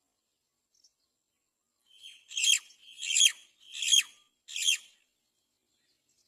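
Great myna chick calling: four harsh calls in quick succession, starting about two seconds in, each swelling up to a loud peak.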